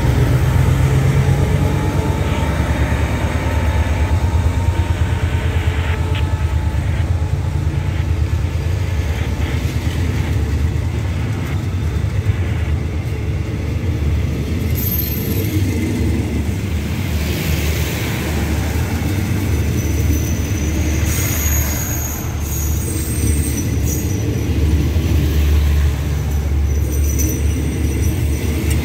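Diesel-hauled passenger train passing close by: a heavy low rumble from the locomotive and its coaches rolling along the rails. Faint high squeals come in during the second half.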